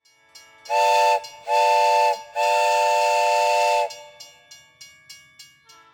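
Steam whistle blowing three blasts, two short and one long, each a steady chord of several tones over hissing steam.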